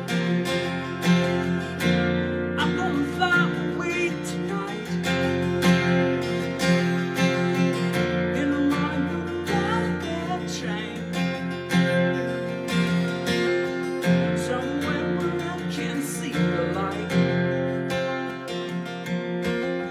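Acoustic guitar strummed in a steady rhythm, playing chords through an instrumental passage of a song.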